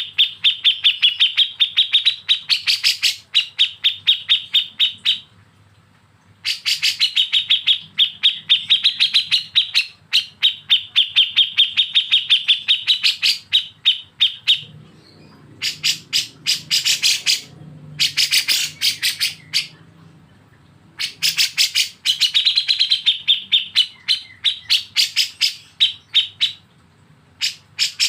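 Songbird song in the 'besetan' style of kapas tembak and cucak jenggot masteran: long runs of rapid, fast-repeated notes, each lasting several seconds and broken by short pauses.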